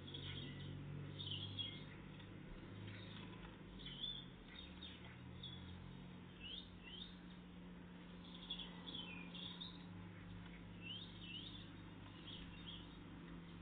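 Small songbirds chirping, with many short calls and quick sweeping notes throughout, faint, over a steady low hum.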